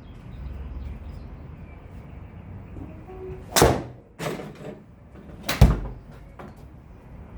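Golf iron striking the ball: two sharp impacts about two seconds apart, with fainter clicks of other hits after each, over a steady low rumble.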